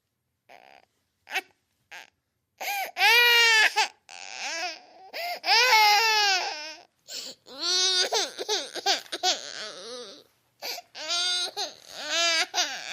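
Cartoon baby-girl voice sound effects: a string of short, high-pitched crying and fussing cries, each cut off abruptly by silence. A few faint short sounds open it, then louder wailing cries follow.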